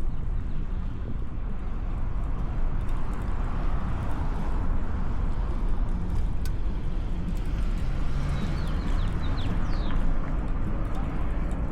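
Wind buffeting the microphone over steady road noise while riding a bicycle through city streets, with a few short high chirps about three quarters of the way through.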